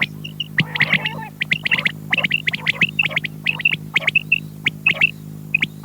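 Quail calling, a rapid, overlapping jumble of short sharp chirps, over a steady electrical hum.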